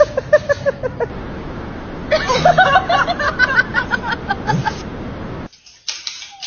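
People laughing in rapid, repeated bursts: a short run of laughs at the start, then a longer run of laughter from about two seconds in that cuts off suddenly near the end.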